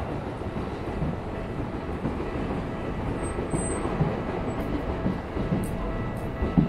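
A train running on the tracks: a steady rumble with a few low knocks.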